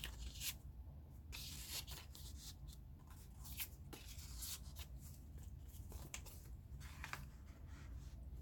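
Paper rustling and crinkling in short scattered bursts as the pages, pockets and tucked-in tags of a handmade junk journal are handled and turned.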